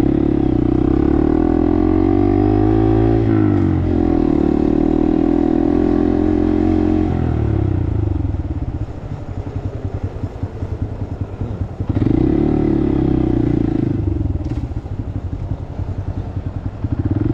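Small single-cylinder Honda Grom motorcycle engine under way: held at high revs with a brief dip in pitch about three seconds in as it shifts, then easing off to a low rumble as it slows, and picking up again about twelve seconds in and near the end.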